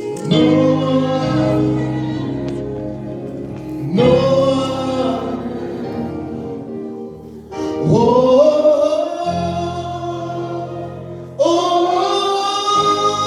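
Group of voices singing a gospel chorus in four long phrases, each entering strongly and then easing off.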